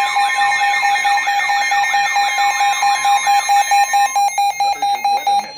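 Electronic weather alert alarm sounding: a warbling siren-like tone over a steady tone, sweeping up and down about three times a second, then switching to rapid beeping about four seconds in.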